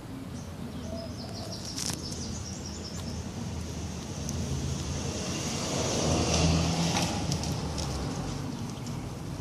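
A vehicle passing, its low rumble swelling to a peak and easing off about six to seven seconds in, with a quick run of bird chirps about a second in.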